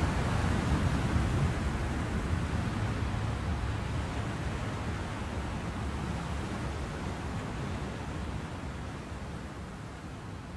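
Steady wash of ocean surf, a continuous noise of breaking waves, slowly fading out.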